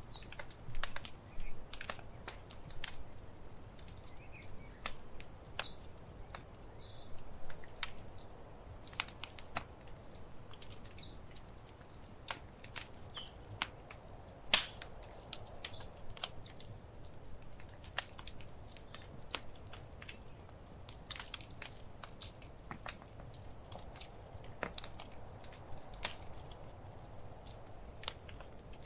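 Wood fire crackling: irregular sharp pops and snaps over a low steady rumble, with one louder pop about halfway through.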